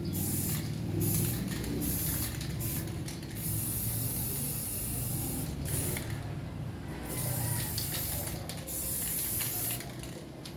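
Stove burning used engine oil and used cooking oil: a steady low rumble with a loud spray-like hiss that comes and goes in stretches of a second or two.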